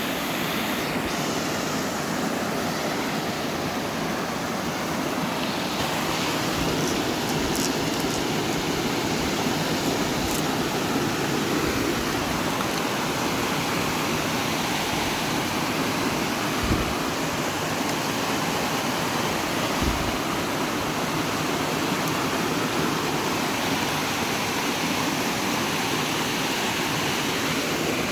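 Waterfall and stream water rushing in a steady, even wash, with a couple of faint low thumps partway through.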